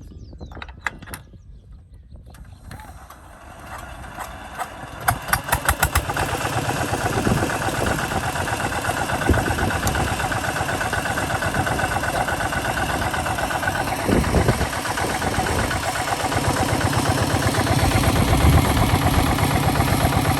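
Kubota ZT155 DI single-cylinder diesel engine starting: a few quiet clicks, then a quick run of sharp strokes about five seconds in as it fires, after which it runs steadily.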